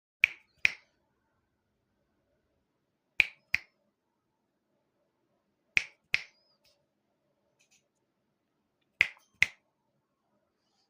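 Double finger snaps, two sharp snaps in quick succession, repeated four times about every three seconds, as a call to an African grey parrot.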